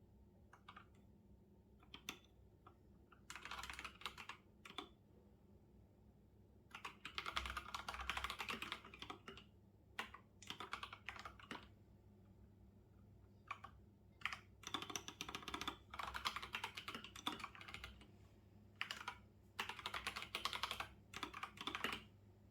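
Typing on a computer keyboard: quick runs of keystrokes lasting a second or three, broken by short pauses and single taps.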